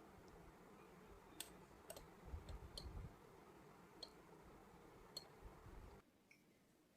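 Faint clicks and light knocks of kitchenware being handled: about six sharp clicks spread over several seconds and a few soft low thuds near the middle. The sound cuts off to silence about a second before the end.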